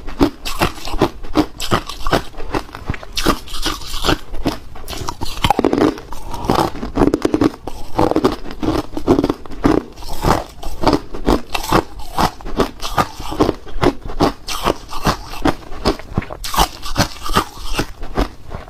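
A person chewing hard ice close to the microphone: a steady run of loud crunches, several a second, as the ice cracks and breaks between the teeth.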